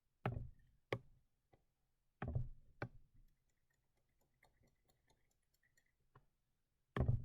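Sharp clicks and taps of a computer input device used for digital drawing: about five in the first three seconds, then faint quick ticking, and one more click near the end.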